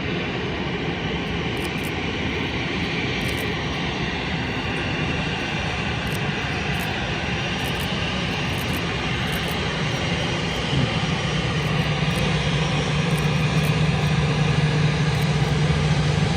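Jet airliner engines running with a steady rushing noise that slowly grows louder, and a low hum that comes in about eleven seconds in.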